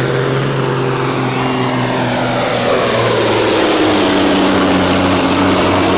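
Semi truck's diesel engine running at full throttle while pulling a weight-transfer sled, with a high, steady turbo whistle. About halfway through, the engine note drops and gets louder as the engine bogs under the growing load.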